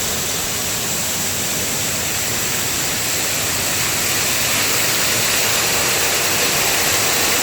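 Artificial waterfall pouring over a gabion-and-concrete wall into a pool, a steady rushing of falling water that grows a little louder toward the end.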